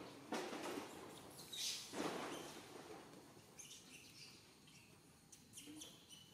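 Faint, short, high bird chirps scattered through the second half, after two brief whooshing noises in the first two seconds.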